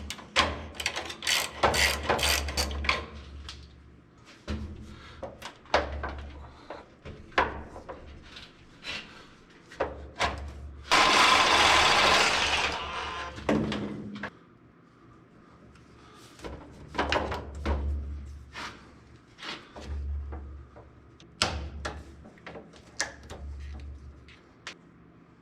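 Hand work on an electrical panel: scattered clicks and knocks of tools and heavy wire being handled. About eleven seconds in comes a loud, noisy burst that lasts a couple of seconds.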